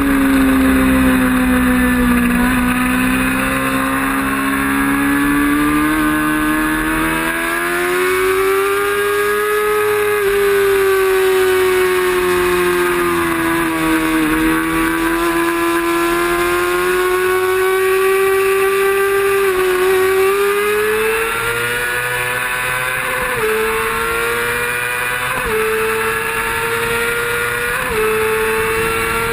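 Racing motorcycle engine running hard at high revs, its pitch falling and rising with the throttle. Near the end it climbs in short steps, dropping sharply in pitch three times as it shifts up through the gears.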